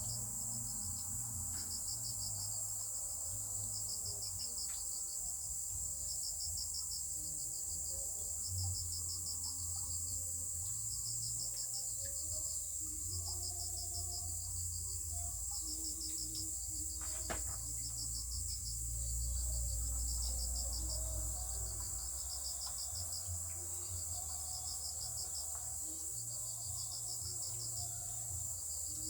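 Crickets chirping in a regular rhythm, about one pulsed chirp a second, over a constant high-pitched insect trill.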